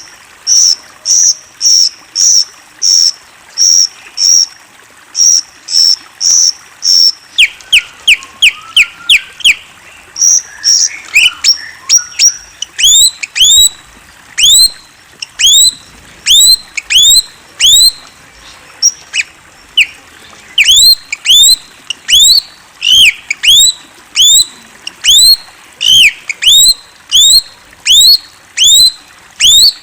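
A rio-rio songbird singing a long series of repeated notes. It starts with short high notes about twice a second, breaks into a quick run of falling notes around seven seconds in, then settles into rapid upward-curving whistles for the rest.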